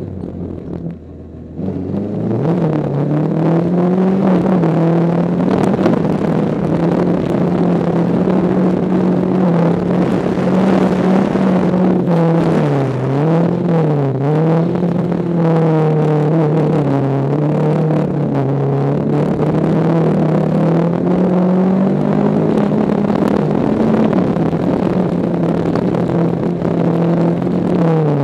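Air-cooled flat-four engine of a Volkswagen Beetle race car, heard from inside the cabin. It picks up sharply from low revs about two seconds in, then runs hard at high revs, with a few quick dips in revs in the middle and again near the end.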